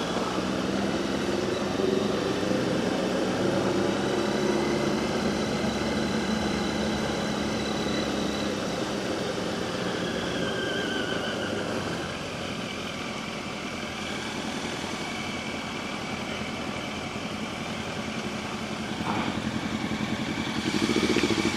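Motorcycle engines running at low street speed, the engine note rising and falling gently with the throttle. The sound drops somewhat about twelve seconds in and picks up again near the end.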